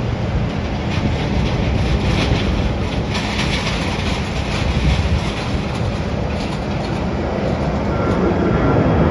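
Jet airliner engines, a loud steady rumble, with a thin high whine joining near the end.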